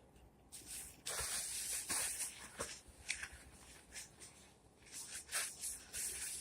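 Close-miked eating sounds: wet, crackly chewing and mouth smacking of baked chicken and collard greens, coming in two louder stretches with a few clicks between.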